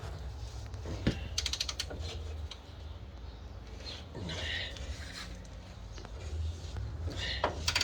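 Socket ratchet clicking in short quick runs as a bumper bolt is worked loose, with a sharp knock of the tool about a second in and another run of clicks near the end.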